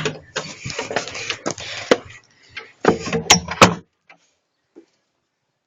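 Door being opened on the way outside: rustling and clattering for about two seconds, then another short clatter with two sharp clicks about three seconds in.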